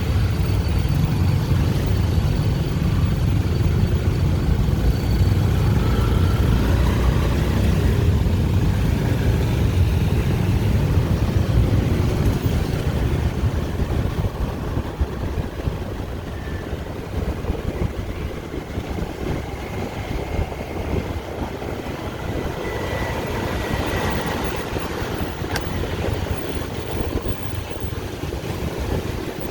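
Dense street traffic of motorbikes, cars and tuk-tuks, a steady rumble of engines and tyres that eases off about halfway through.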